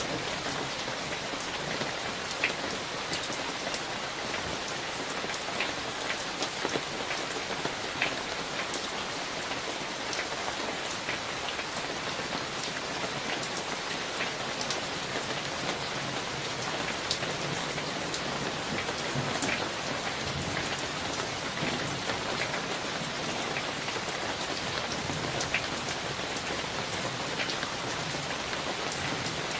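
Steady heavy rain from a summer thunderstorm falling on surfaces, with many sharp individual drop impacts scattered through it.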